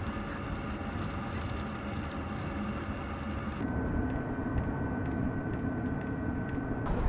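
Steady machine drone with several steady hum tones. About halfway through, the higher sound falls away and one thin steady tone remains; the sound changes abruptly just before the end.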